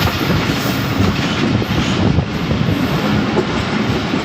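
Jaffar Express passenger train running at speed, heard from aboard: a steady rumble and rattle of the coaches with the wheels clattering over the rail joints.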